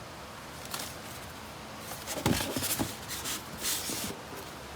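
Cardboard shipping box being handled, with rubbing and a few light knocks and scrapes from about two seconds in.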